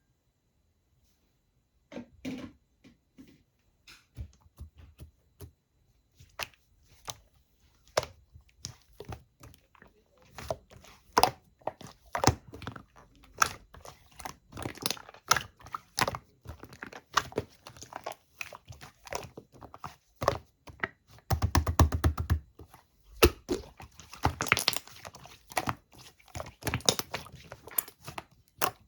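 Small objects handled close up: irregular taps and clicks with crinkling and tearing, sparse at first and growing busier, with a quick rattling run of clicks about two-thirds of the way through.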